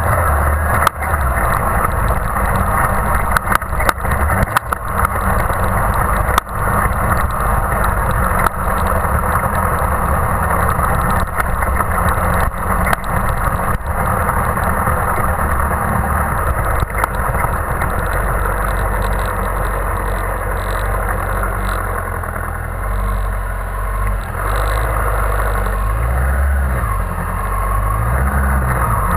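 2001 Yamaha R1's inline-four engine running at low revs, heard through the onboard camera with wind noise. Frequent knocks through the first half, then steadier running, with a couple of short rises in engine pitch near the end.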